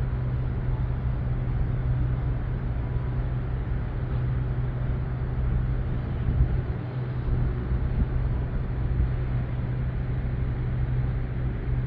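A steady low engine rumble with a constant hum, running without change.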